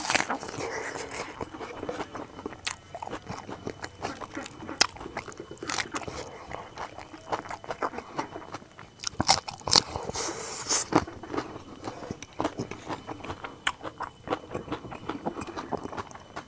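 Close-miked chewing and crunching of food, with irregular sharp clicks and wet mouth smacks.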